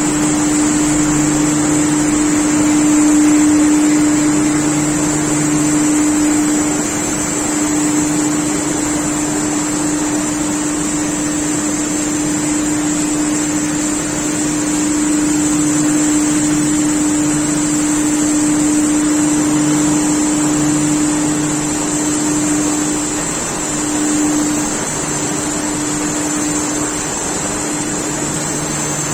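Mezzera open-width fabric washing range running steadily. It gives a constant hum with a high whine above it, and a lower tone that cuts in and out several times.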